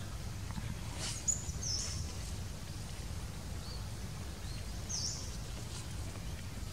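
Outdoor ambience: a steady low rumble with a few short, high bird chirps, two a little after a second in and another around five seconds.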